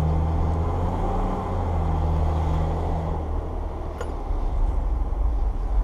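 Heavy truck engine running steadily, a low hum that eases off about three seconds in, with a single sharp click about four seconds in.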